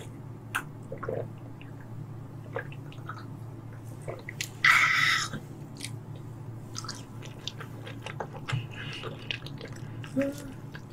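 Close-miked eating sounds of raw tuna sashimi: soft chewing and small wet mouth clicks. A short breathy burst comes about five seconds in, and a brief hummed 'mm' near the end.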